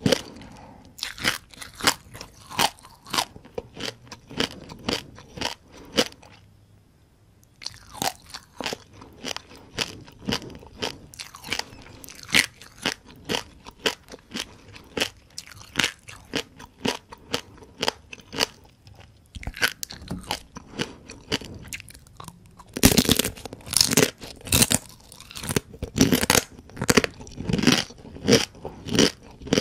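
Close-up chewing and crunching of whole crispy fried small rice-field crabs, the shells cracking sharply between the teeth in quick, irregular bites. There is a brief pause about six seconds in, and louder, denser crunching near the end.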